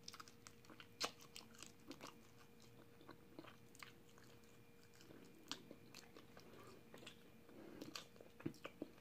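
A person biting and chewing a piece of fried chicken: faint, scattered crunching clicks.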